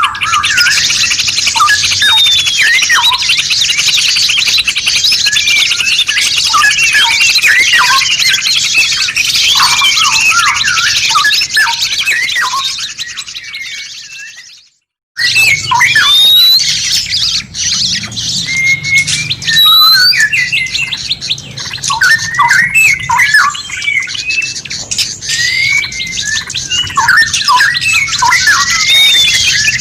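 Songbirds singing: a dense mix of quick chirps, whistles and chattering calls. About halfway through the recording fades out to a moment of silence, then another bird recording starts abruptly.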